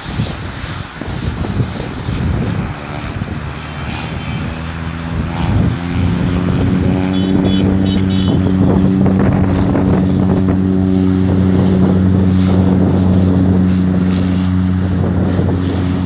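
Airplane engines at close range: a noisy rush at first, then a steady hum of a few low tones that comes in about four to five seconds in, grows louder around six seconds and holds steady.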